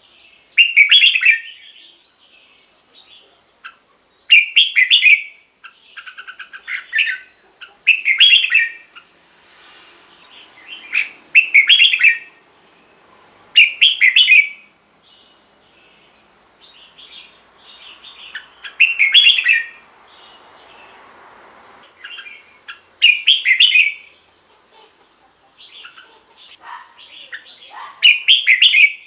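Red-whiskered bulbul singing: short, loud, bright phrases every few seconds, about nine in all, with softer chirps between them. A faint steady high-pitched tone runs underneath.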